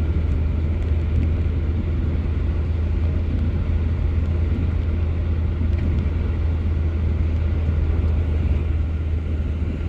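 Car running, a steady low rumble with no change through the stretch.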